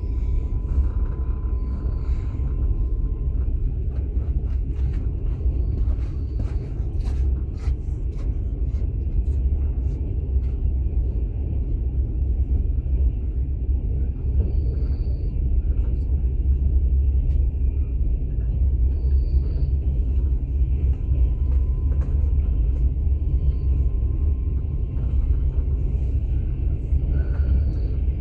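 A moving passenger train heard from inside an open-plan sleeper carriage: a steady, low rumble from the running gear on the track, with a few short clicks about six to eight seconds in.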